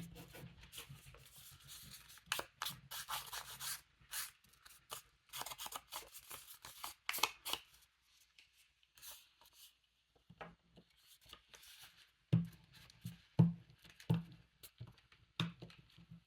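Paper being distressed: its edges scraped and rubbed in quick scratchy strokes. Several sharp knocks on the work surface follow in the second half.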